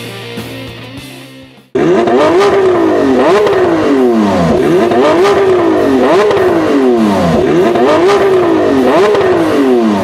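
Lamborghini Aventador's V12 engine revved over and over, its pitch climbing and falling about six times, once every second and a half or so. It starts suddenly after rock music fades and cuts off.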